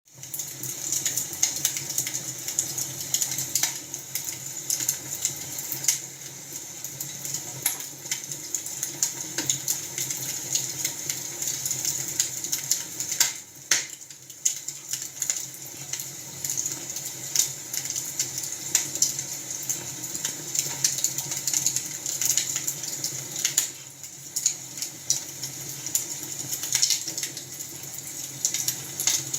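Wood fire in a fireplace crackling, a dense, irregular run of small pops and snaps.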